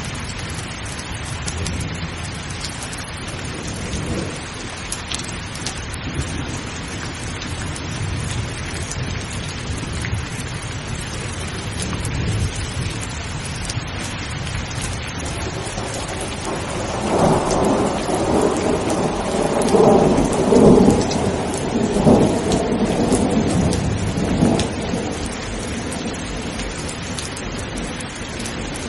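Steady rain falling, with low thunder rumbling under it; a little past halfway a long roll of thunder swells up, is loudest about two-thirds of the way through, and dies away before the end.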